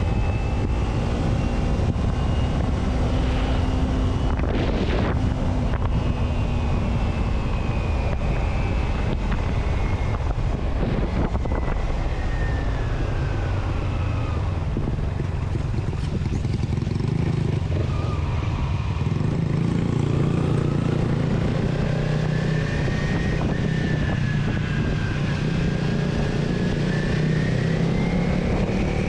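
A road vehicle running along steadily, with a continuous low rumble and wind noise on the microphone. A thin whine rises and falls slowly as the speed changes.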